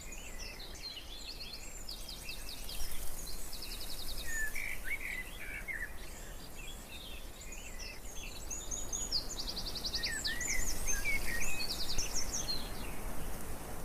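Several wild birds chirping and giving quick trills over a steady rush of wind, with the calls busiest about a third of the way in and again near the end.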